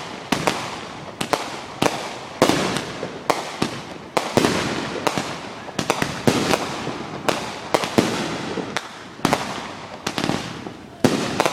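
Aerial fireworks bursting overhead in quick, irregular succession, about two sharp bangs a second, each trailing off in echo.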